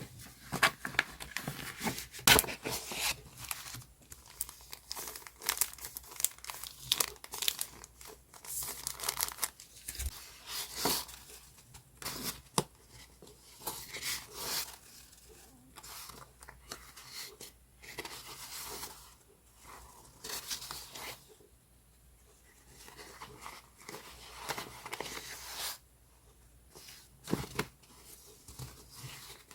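Paper and stationery being handled at close range: irregular rustling, crinkling and tearing sounds, with short quiet pauses.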